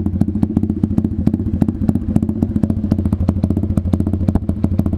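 Stomp Z40 140cc pit bike's single-cylinder four-stroke engine running steadily with even firing pulses. No exhaust rattle is heard: the back end of the silencer baffle has been taken out, which cured it.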